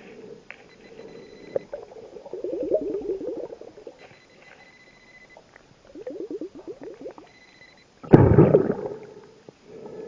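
Scuba diver's exhaled breath bubbling out of the regulator, heard underwater: two bubbly exhalations about four seconds apart, then a louder rushing gush of bubbles about eight seconds in. Faint steady high tones come and go behind it.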